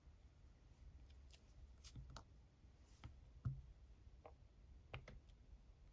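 Near silence broken by a few faint, short taps and clicks as a small star stamp is handled, inked and pressed onto a paper tag.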